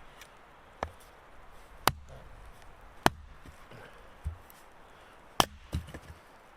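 Wood being chopped: about six sharp chopping strikes, roughly one a second.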